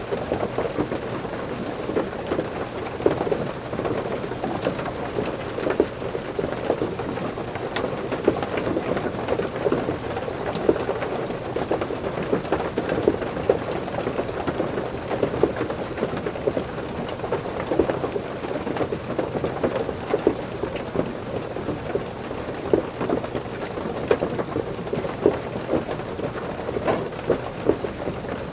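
Heavy rain, possibly mixed with ice rain or hail, drumming on a roof as heard from inside, a dense steady patter of drops with frequent sharper individual hits.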